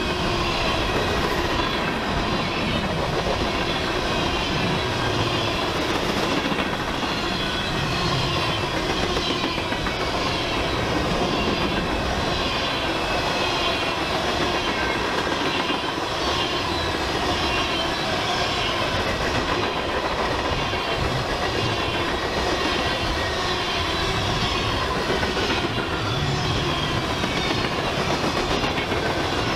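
A freight train's cars rolling steadily past at speed: a continuous rumble and clatter of wheels on the rails, with thin high squealing tones over it.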